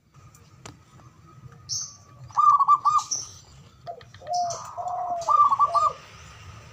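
Doves cooing: quick runs of about four arched coos, twice, with a lower-pitched coo between them, and short high chirps from small birds mixed in.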